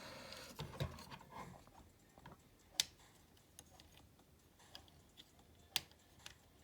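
Plastic action figure's joints being moved by hand: soft handling noise, then scattered small clicks, two of them sharper, about three seconds apart.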